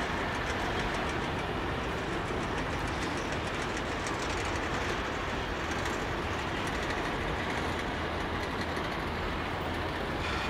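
Container wagons of a long freight train rolling past: a steady rumble of steel wheels on rail with quick runs of clicks from the wheels passing over the track.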